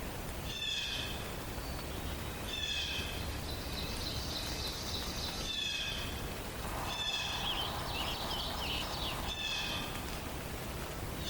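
Songbirds singing in a forest dawn chorus. One bird repeats a short whistled phrase every two to three seconds, another gives a high trill a few seconds in, and a third sings a varied warble near the end.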